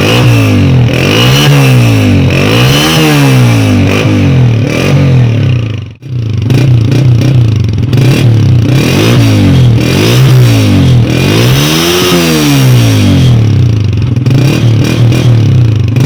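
Honda CG 125's single-cylinder four-stroke engine revved repeatedly through a genuine Honda silencer, the pitch climbing and falling with each blip of the throttle. The sound drops out briefly about six seconds in, then the revving carries on.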